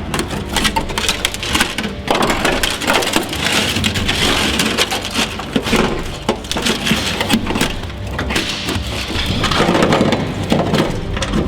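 Dry-ice-frozen Body Schutz sound deadener being scraped and cracked off a car's sheet-metal floor with a hook: a dense, uneven crackling and crunching as the brittle coating breaks away.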